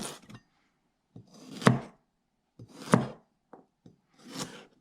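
Carrot being sliced with a Paderno straight-edge kitchen knife: four strokes, each a short rasp as the blade is forced through, ending in a sharp knock as it meets the board. The carrot takes a fair bit of pressure to cut.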